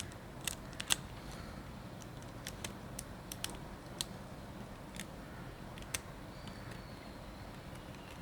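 Small hand tools clicking and tapping on the parts of a Nikon D90 camera body during disassembly: about a dozen short, sharp, irregular clicks, the loudest a little under a second in.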